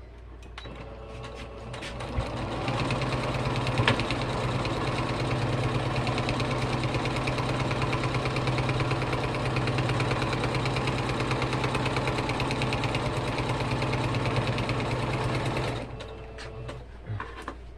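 Electric sewing machine stitching a seam in one continuous run. It speeds up over the first two seconds or so, runs steadily, then stops near the end.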